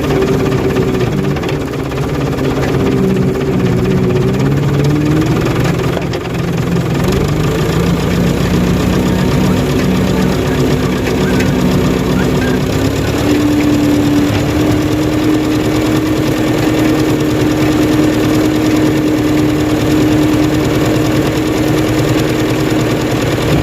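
Fordson Super Major tractor's four-cylinder diesel engine running, its speed shifting in the first several seconds, then stepping up about 13 seconds in and holding steady at the higher speed.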